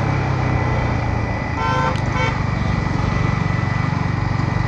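Yamaha MT-15 V2's 155 cc single-cylinder engine running steadily through its stock exhaust while riding, heard from on the bike. A vehicle horn beeps in a few short pulses about one and a half to two seconds in.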